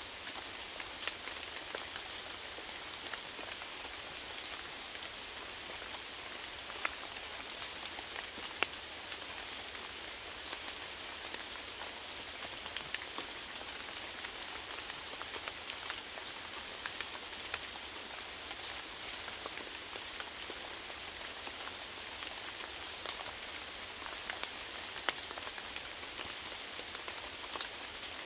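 Steady rainfall, a continuous hiss with many individual drops ticking on a surface.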